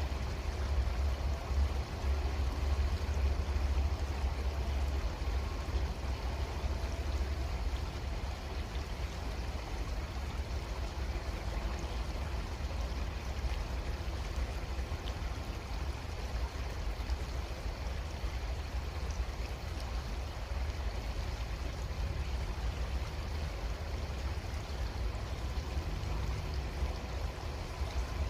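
Creek water flowing steadily, an even rushing and trickling over a low rumble.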